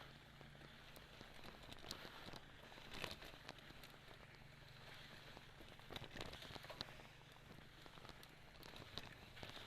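Element Spy 2.0 mountain bike rolling over a dirt forest trail: faint tyre crunch and crackle on the ground, with scattered small knocks and rattles from the bike. The loudest knocks come about 3 s and 6 s in.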